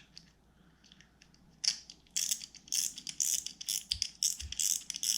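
Abu Garcia SX10 spinning reel's gears and mechanism clicking rapidly as the handle is turned, starting after a short quiet spell, to test whether the reel's strange noise has been cured.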